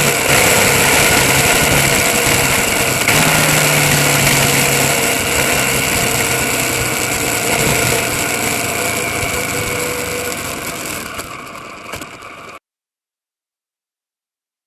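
Car engine running steadily under a loud, even noise, fading down over several seconds and cutting off abruptly to silence near the end.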